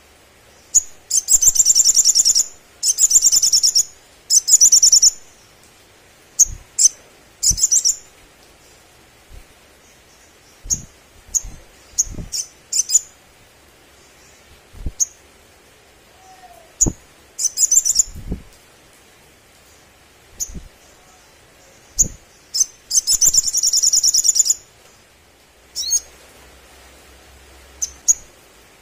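Olive-backed sunbird singing: high, fast trilling phrases of about a second each, separated by short sharp chips, several phrases in a row.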